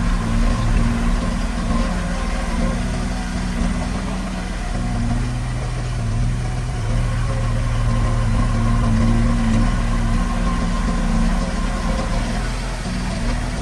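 Heavy-equipment diesel engine running steadily at a low, even pitch, briefly easing around four seconds in before picking up again.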